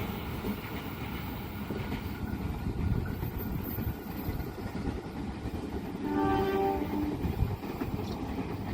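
Passing train running with a steady rumble, and a short locomotive horn blast of under a second about six seconds in.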